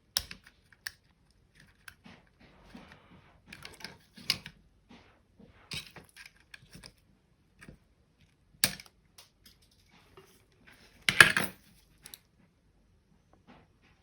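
Plastic clicks and rattles of a Razer Diamondback mouse's shell and parts being lifted and handled apart, scattered taps throughout, with a sharper click and then a louder clatter in the last few seconds.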